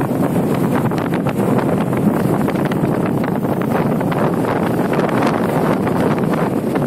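Strong wind buffeting the microphone, a loud, steady rumble with constant gusty fluttering.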